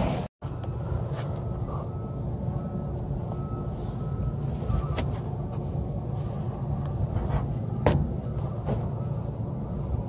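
Steady machinery hum, with a few sharp clicks about halfway through and again later.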